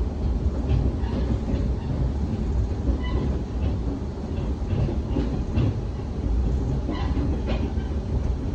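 Aizu Railway diesel railcar running along the line, heard from inside the carriage: a steady low rumble with pairs of sharp wheel clacks over the rail joints about every two seconds.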